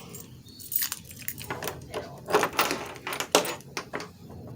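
A bunch of keys jangling, with a run of sharp metallic clinks about two seconds in.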